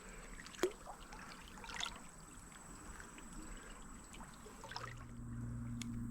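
Faint sloshing and trickling of shallow creek water as someone wades, with a few light clicks and knocks. A steady low hum comes in about five seconds in and keeps going.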